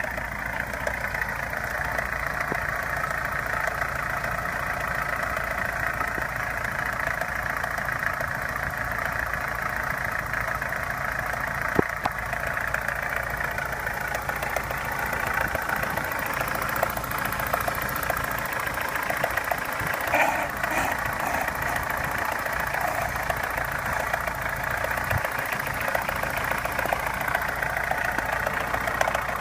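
Opel Omega A 2.0 four-cylinder petrol engine running steadily, with knocking in it: a diesel-like clatter and a lighter tapping, whose cause the owner does not know. A single sharp click stands out about twelve seconds in.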